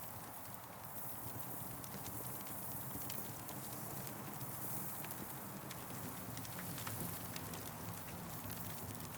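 Campfire crackling: irregular sharp pops and snaps scattered over a steady hiss and low rumble of burning wood.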